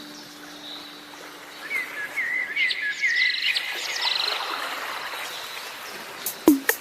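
Bird chirping: a run of quick, quavering chirps, followed near the end by a few sharp clicks.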